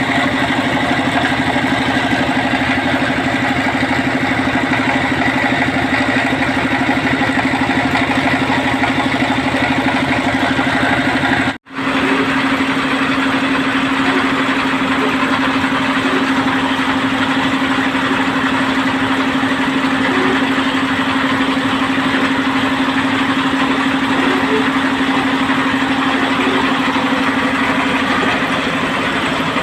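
Engine of a well-drilling machine running steadily with a constant hum. It drops out for an instant about a third of the way through, then carries on unchanged.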